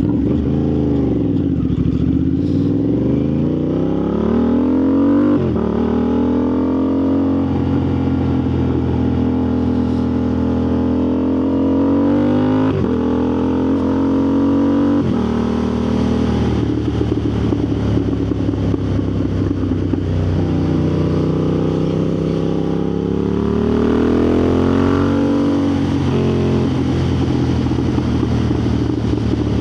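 Motorcycle engine under way, its revs climbing and then dropping sharply at gear changes around five, thirteen and fifteen seconds in, then holding fairly steady before swelling and easing off again near the end.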